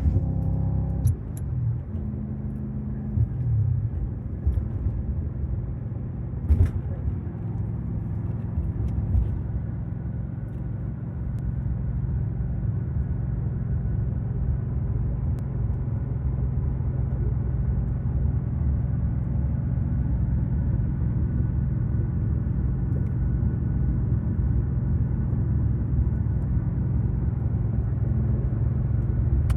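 2006 Audi S4 Avant's 4.2-litre V8 running under way, a steady engine drone. Its pitch drops over the first few seconds, then holds.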